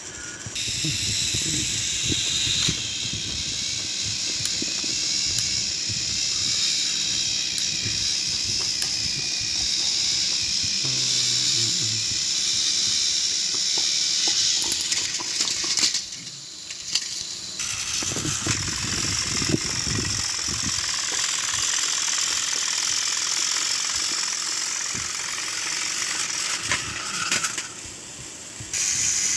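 Battery-powered toy train engines running, their small motors and gearing whirring steadily with a rattle from the wheels and track. The whirring breaks off briefly about halfway through, then starts again.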